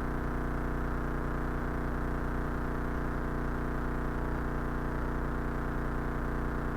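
Cessna 172's piston engine and propeller running at a steady setting, an even drone heard from inside the cockpit.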